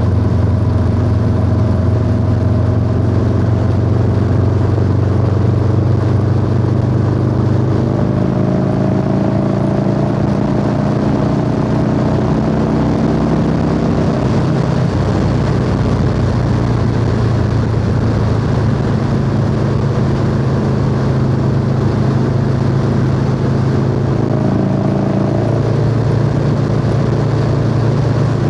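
Harley-Davidson Low Rider S V-twin running at a steady cruise through a 2-into-1 exhaust, its note stepping in pitch a few times as road speed changes, over road and wind noise.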